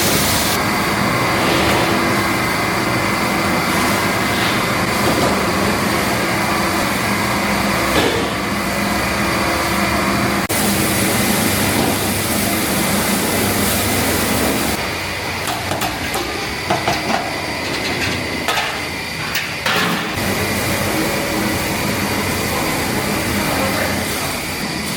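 Large drum mixers and other food-factory machinery running: a loud, steady mechanical din with a constant hum and a high whine. The sound changes abruptly about ten and fifteen seconds in, and a few sharp knocks come in the second half.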